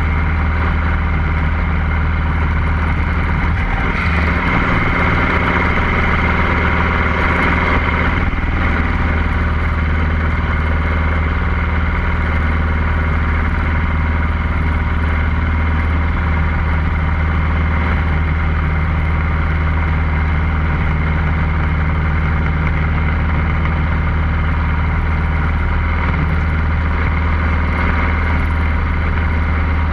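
Cessna 150L's Continental O-200 four-cylinder engine and propeller running steadily at an even power. A few seconds in, a rushing hiss grows louder for a moment.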